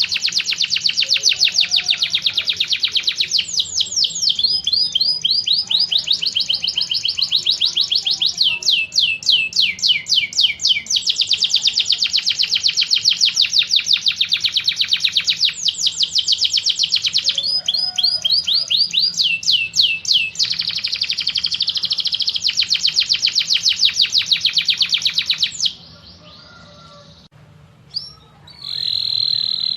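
Songbird singing long, rapid trills of fast-repeated descending notes, the pattern shifting every few seconds. The song breaks off about 26 seconds in and starts again near the end.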